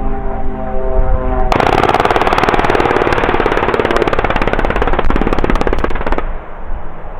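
Pilatus PC-7 turboprop engine droning, then about a second and a half in a long run of rapid machine-gun fire in strafing, lasting nearly five seconds and cutting off suddenly; the engine drone carries on quieter afterwards.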